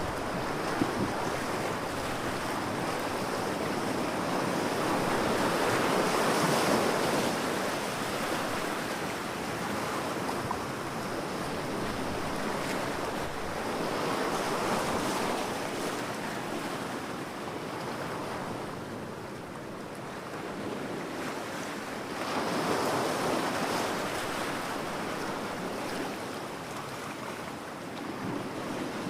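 Ocean waves breaking on a beach, the surf swelling and falling back roughly every eight seconds, with wind on the microphone. There is a brief click about a second in.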